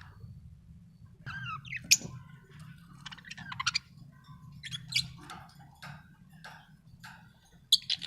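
Budgerigars chirping and chattering in quick, varied calls, with a few loud, sharp chirps scattered through.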